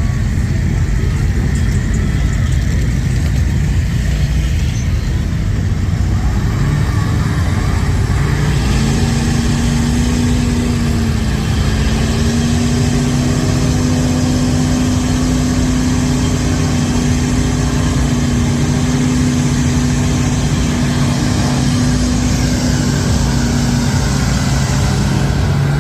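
Big truck engine running low, then from about eight seconds in held at high, steady revs for roughly fifteen seconds before easing off near the end. This is the engine working during a snatch recovery pulling a stuck truck out of a deep mud hole.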